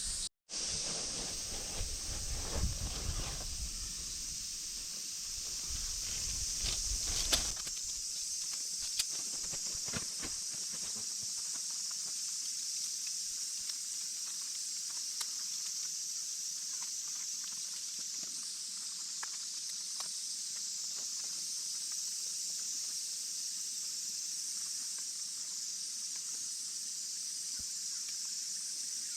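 A steady, high-pitched chorus of summer insects droning throughout. For the first several seconds there are low shuffling and handling noises, with scattered clicks, like footsteps and gear being moved.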